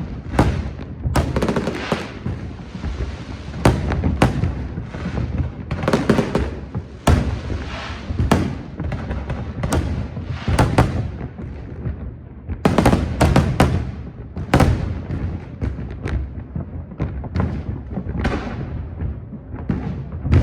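New Year fireworks bursting in an irregular, rapid run of sharp bangs and crackles over a continuous low rumble, with music underneath.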